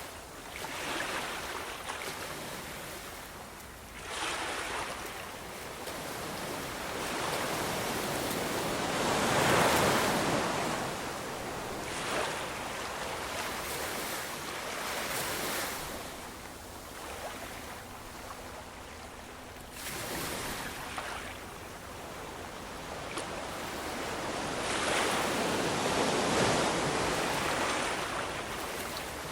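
Ocean waves breaking and washing on a shore, each surge swelling and then falling away; the loudest come about a third of the way in and again near the end.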